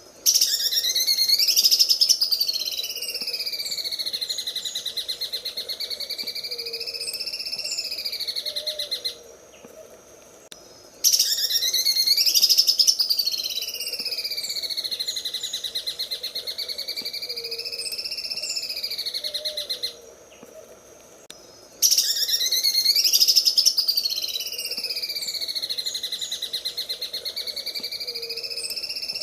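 Green leafbird (cucak ijo) singing its 'sewing machine' song: a very fast mechanical-sounding rattle that sweeps down in pitch and back up in a slow wave. The same phrase of about nine seconds repeats three times with short pauses between, loudest at the start of each.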